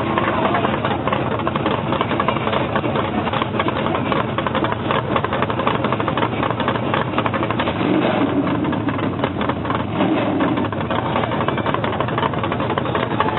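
Monster truck engine running loudly and steadily, with a dense, rapid pulsing.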